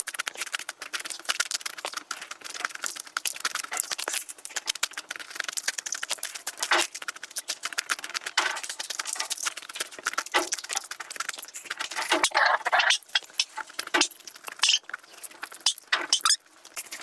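Close-miked eating sounds: food being chewed and crunched, a dense run of crackles with louder single snaps every second or two.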